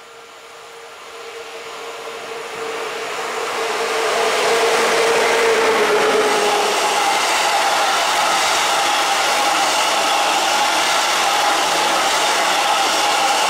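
An ET22 electric locomotive hauling a container freight train approaches and passes, the sound growing over the first four seconds, with a steady tone that drops slightly and fades out about seven seconds in. The container wagons then roll past, a steady loud rushing noise of wheels on rails.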